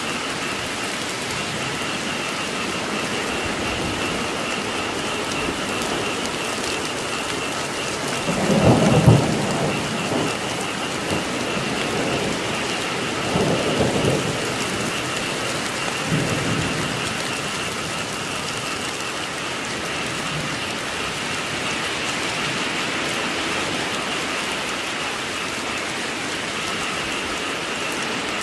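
Steady heavy rain with three rolls of thunder, the loudest about eight seconds in, then two weaker ones a few seconds apart. A steady high frog chorus runs underneath the rain.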